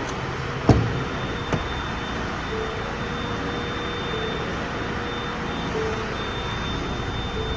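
Ford Transit van's 2.0 EcoBlue diesel running steadily, with a heavy thump about 0.7 s in, like a door shutting, and a lighter knock shortly after. A thin high steady tone sounds from about a second in.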